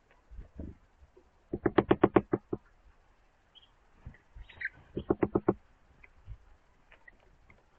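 A bird hammering with its beak at a feeder or wood: two quick runs of sharp taps, about nine a second, each lasting about a second, with a few faint chirps between them.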